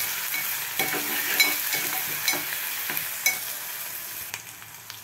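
Sliced onions, green chillies and curry leaves frying and sizzling in an aluminium pot while a spoon stirs them, scraping and knocking against the pot about once a second. The stirring stops after about three seconds and the sizzle carries on, quieter.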